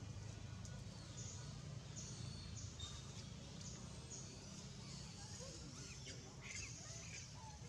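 Outdoor ambience in trees: a steady low rumble with short, high chirping bird calls repeating throughout, busier near the end.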